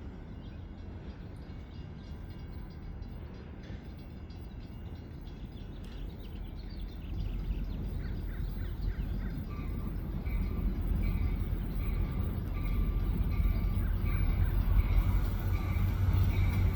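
MPI F40PH-3C diesel locomotive approaching, its low rumble growing steadily louder. From about halfway a bell rings in a steady rhythm, a little more than once a second.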